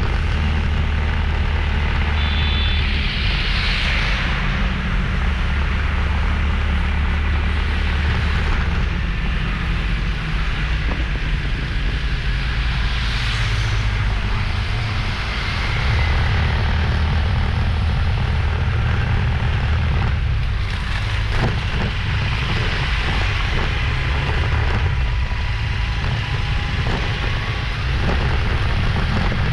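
Motorbike riding on a road: engine running steadily under a heavy low rumble, with passing traffic noise.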